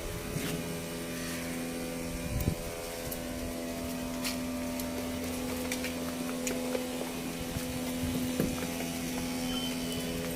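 A steady mechanical hum, with a few light clicks and knocks over it.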